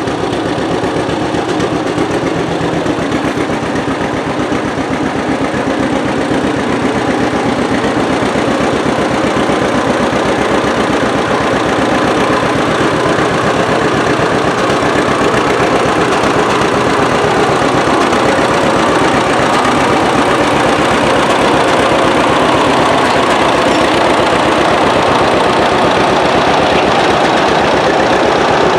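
An engine running steadily and loudly, with a fine even pulsing and no change in pace.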